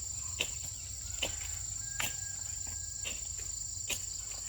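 Insects trilling in a steady high-pitched drone, with sharp knocks or clicks about once a second over a low rumble.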